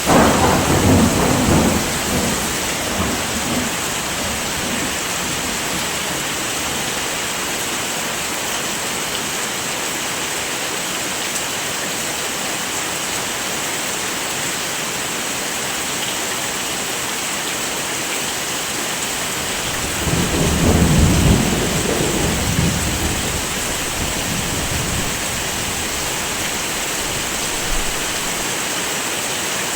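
Steady heavy rain with two rolls of thunder, one right at the start and another about two-thirds of the way through, each lasting a couple of seconds.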